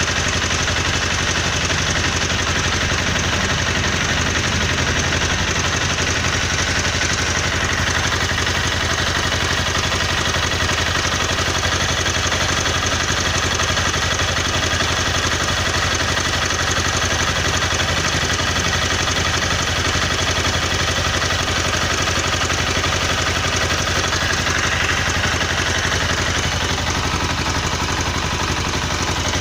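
Honda CBR250R single-cylinder engine running steadily at idle with a fast tik-tik ticking knock, a strange noise whose cause the owner does not know.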